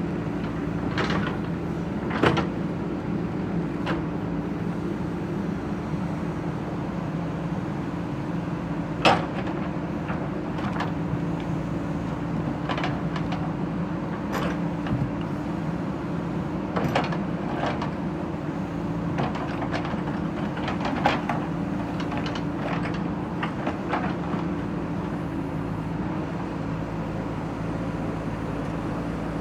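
JCB backhoe loader's diesel engine running steadily, with scattered sharp clanks and knocks from the machine at work, the loudest about two and nine seconds in.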